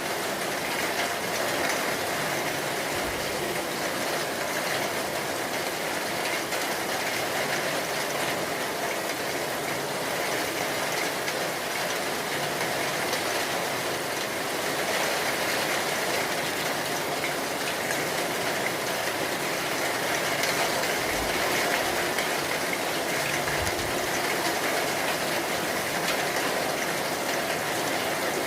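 Steady rain falling, a dense even hiss that keeps a constant level throughout.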